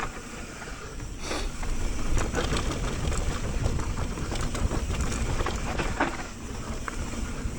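Mountain bike rolling over a dry, loose dirt trail: a steady rumble of tyres and wind on the microphone, with scattered clicks and rattles from the bike.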